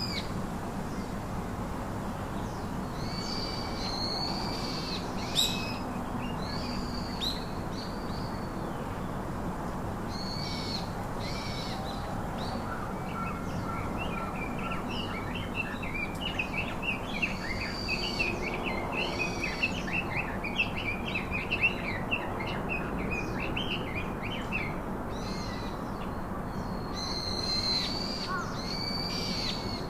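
Wild birds calling and singing: short repeated high call notes, and from about the middle a stretch of fast, dense chattering song. A steady hiss of background noise runs underneath.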